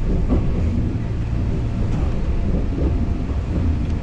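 Kintetsu two-car electric train running along the line, heard from inside the driver's cab: a steady low rumble of the running gear and wheels on the rails.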